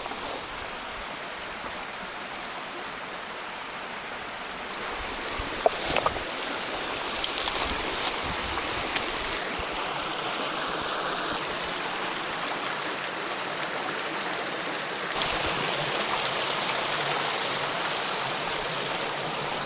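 A stream's water rushing steadily, growing louder about three-quarters of the way through, with a few sharp knocks about a third of the way in.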